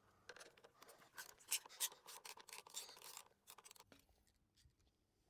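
Faint, irregular scraping and clicking of hand work as the air filter is taken off a small generator engine to get at the carburettor. It stops about four seconds in.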